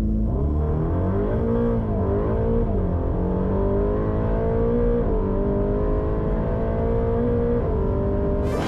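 Ferrari Roma's twin-turbo V8 pulling hard under acceleration. The engine note climbs and drops back a couple of times early on as the dual-clutch gearbox shifts, then holds a fairly steady pitch. Background music runs underneath.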